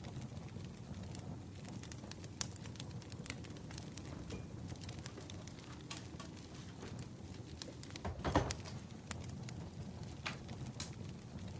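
Wood fire crackling: scattered sharp pops and ticks over a low, steady rumble, with one louder burst of crackle about eight seconds in.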